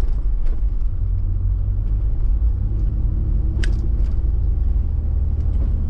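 A Toyota 4x4's engine and road rumble heard from inside the cabin while driving, a steady low rumble with an engine drone coming in about two and a half seconds in. A single sharp click sounds a little past halfway.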